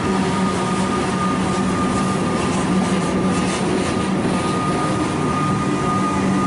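Comeng electric suburban train running along the platform: a steady rumble of wheels on rail with a constant motor whine, and a run of clicks and rattles from the wheels about three seconds in.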